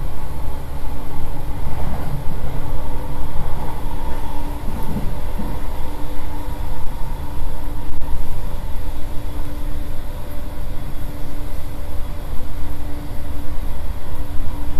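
Interior running noise of a JR East E231-800 series commuter train cruising at about 90–97 km/h: a continuous low rumble of wheels on rail. A steady tone joins about four and a half seconds in.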